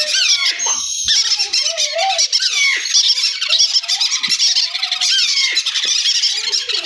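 A flock of parrots chattering and squawking, many birds calling over one another in shrill squeaks and sliding whistles.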